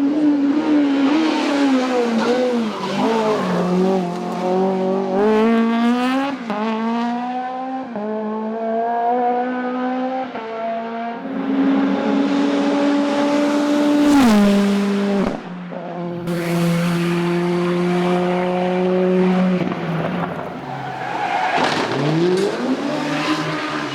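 Race car engine at full throttle, its pitch climbing through the gears with a drop at each upshift. It then holds steady, falls sharply as the driver lifts and changes down, and near the end dips and climbs again.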